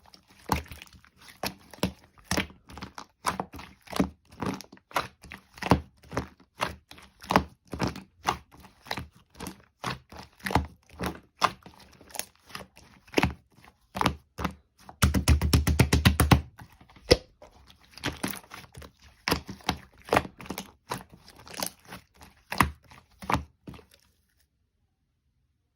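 Slime being squeezed and pressed by hand, making a steady run of short clicky pops, two or three a second, with a quick rapid crackling flurry partway through. The sounds stop shortly before the end.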